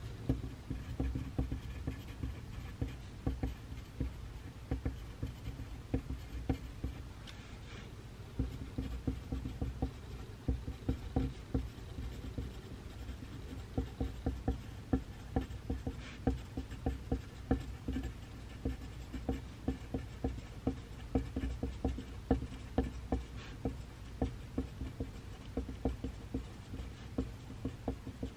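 Pencil writing on paper: a dense, irregular run of short scratching strokes and taps, several a second.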